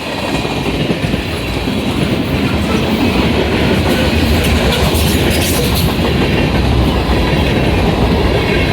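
Freight cars of a long, heavy, fast-moving manifest train rolling past close by, a loud steady rumble of wheels on rail that builds over the first couple of seconds and then holds.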